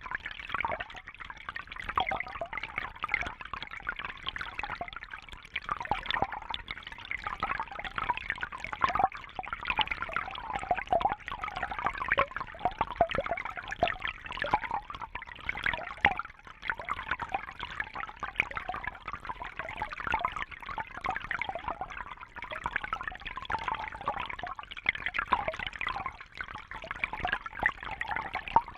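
Water trickling and bubbling steadily, with a busy, splashy flicker and no let-up.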